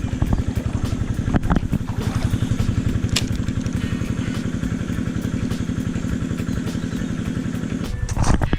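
Small engine of an irrigation water pump running steadily with a fast, even putter, pumping water onto the rice fields. Near the end its steady note breaks off under a brief, louder rush.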